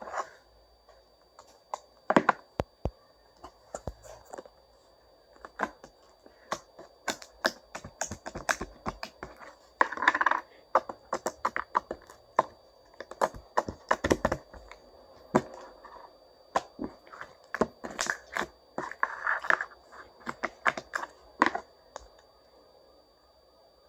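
Hardened slime and stretchy slime being kneaded together by hand, giving off irregular sticky clicks and pops, with a few short crackling squishes. It goes quieter for the last couple of seconds.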